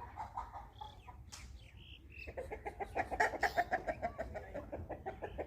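Chickens clucking: a few scattered calls, then from about two seconds in a fast, continuous run of clucks.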